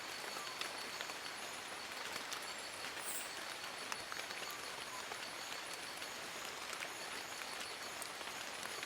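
Steady rain in a forest, many drops pattering and ticking on leaves, with faint, high, evenly repeated chirps in the background.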